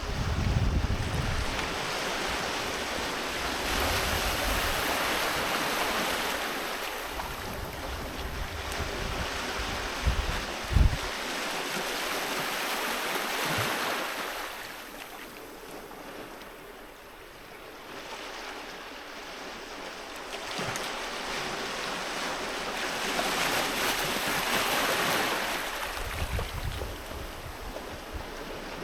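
Sea waves breaking and washing up a beach, swelling twice and easing off in between. Wind gusts rumble on the microphone near the start and near the end, and there is a single short low thump about eleven seconds in.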